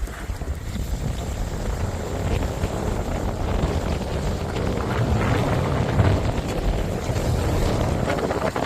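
Wind buffeting the microphone outdoors by the sea: a steady low noise without a clear engine note, swelling a little midway.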